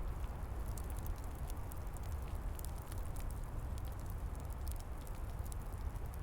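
Wood fire burning, with frequent sharp crackles and pops over a steady low rumble and hiss.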